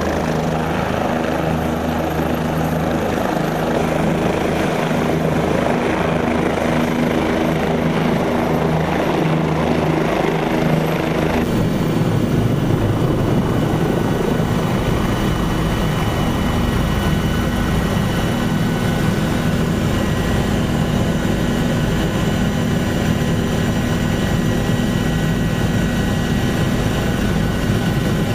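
Helicopter turbine and rotor running steadily and loudly, with a constant hum. The sound changes abruptly about eleven seconds in and then carries on steadily.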